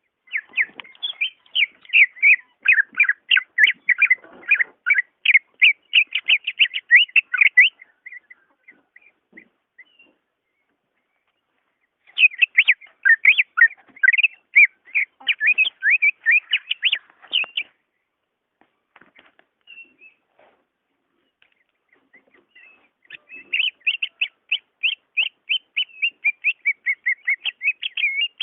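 Cucak ijo (green leafbird) singing: three long bouts of fast, sharp notes, about five a second, separated by pauses of several seconds.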